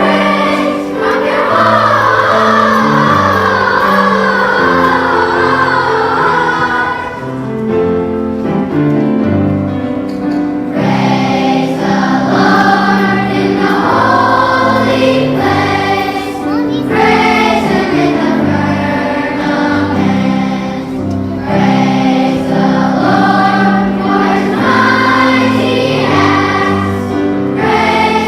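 A children's choir singing a song over a steady instrumental accompaniment.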